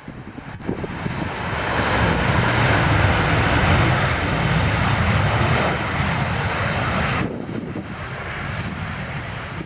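Jet airliner's engines on landing, a loud steady rush building over the first two seconds, then losing its hiss suddenly about seven seconds in and easing off.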